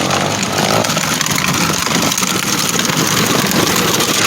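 Small dirt bike engine running steadily.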